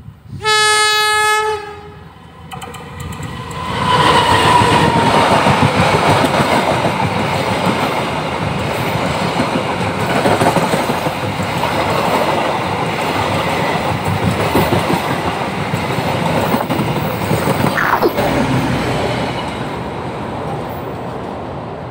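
Diesel locomotive horn sounds one steady blast of about a second. Then a long passenger train passes close by: the engine rumble builds into loud, continuous wheel-on-rail rolling and rattling from the coaches, with a brief falling squeal near the end.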